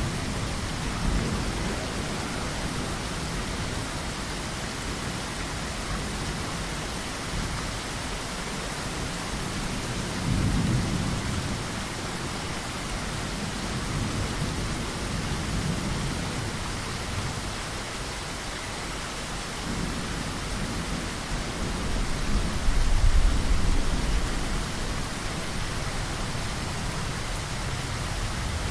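Heavy rain falling steadily as a dense hiss, with thunder rolling low underneath in several swells; the loudest rumble comes a little past the three-quarter mark.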